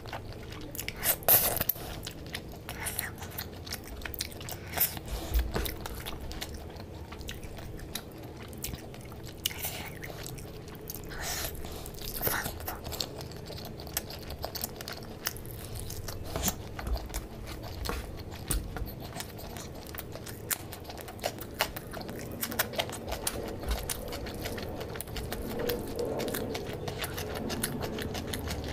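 Close-miked chewing of handfuls of rice, curry and fish: irregular wet mouth clicks and bites, with the loudest cluster about a second in.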